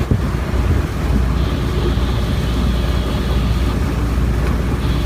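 Steady low rumble with wind noise aboard a sailboat under way.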